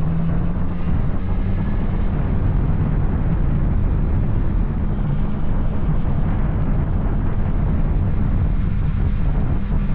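Yamaha Tracer 900's three-cylinder engine running steadily through an Arrow aftermarket exhaust, low and even in pitch.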